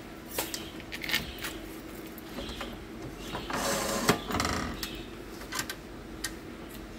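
Scattered light clicks and rattles, with a brief scraping rustle about halfway through, over a steady low hum.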